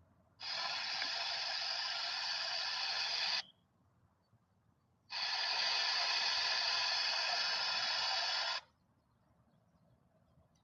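Air traffic control radio channel opening twice, each time for about three seconds of steady static hiss that starts and cuts off abruptly.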